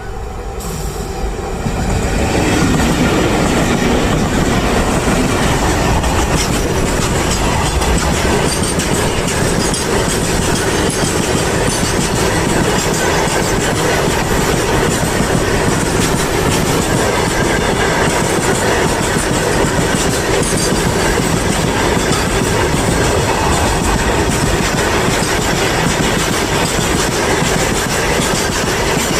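Indian Railways freight train running on the track, its wagons' wheels clattering and rumbling over the rails, with some wheel squeal. The sound builds over the first two seconds, then stays loud and steady.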